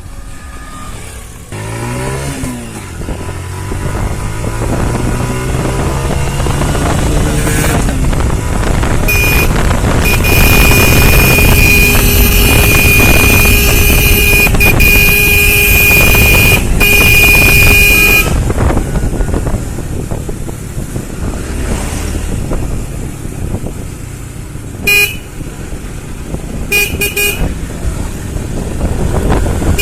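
Motorcycle engine pulling away on the road, its pitch climbing a couple of seconds in as it speeds up. A horn sounds steadily for about eight seconds in the middle, then gives short toots near the end.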